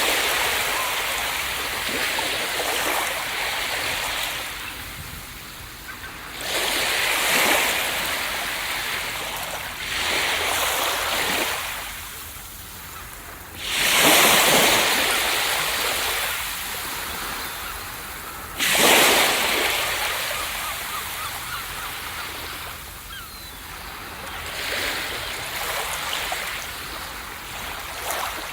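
Ocean waves breaking on a beach: a steady wash of surf, with a wave crashing every four to six seconds, each rising quickly and then fading out over several seconds. The two loudest crashes come about halfway through.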